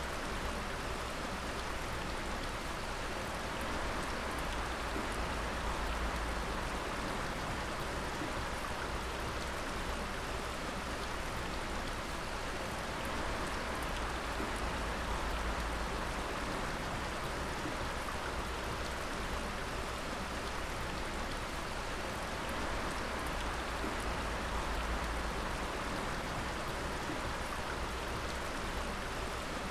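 Dripping water: many drops falling at once in a steady, dense spatter, with no break or change.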